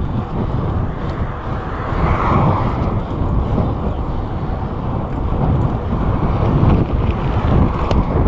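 Road traffic passing, a steady low rumble of car engines and tyres, with wind buffeting the microphone.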